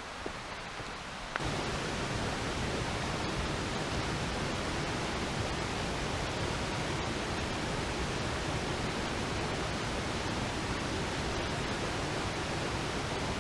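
Rushing water of a rain-swollen river or waterfall, a steady wash of noise that suddenly gets louder and fuller about a second and a half in.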